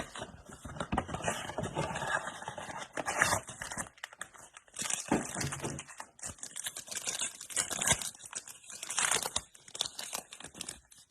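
Crinkling and tearing of trading-card packaging as a blaster box and its foil card packs are torn open and handled, in irregular crackly bursts.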